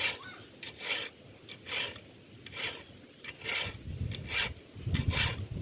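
Handsaw cutting through a wooden board in regular push-and-pull strokes, a dry rasp about once a second. A low rumble joins in during the second half.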